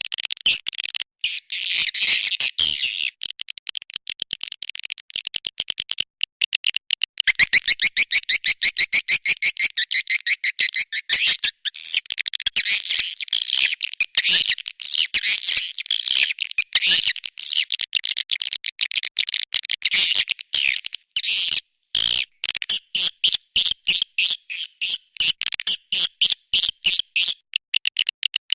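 Recorded swiftlet calls used as a lure sound: dense, fast, buzzy twittering chirps, high-pitched, chopped into rapid pulses with brief breaks.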